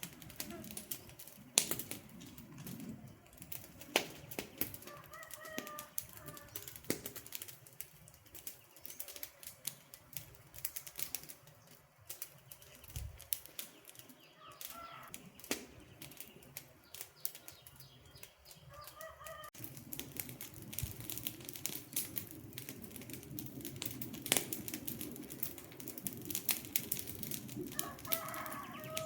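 Campfire crackling, wood popping and snapping in irregular sharp cracks over a low hiss. A bird calls briefly in the background about four times, in short pitched notes.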